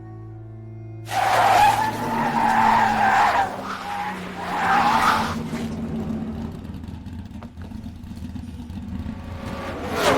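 Race car tyres screeching in a hard skid under heavy braking, in two long stretches starting about a second in, over orchestral film music.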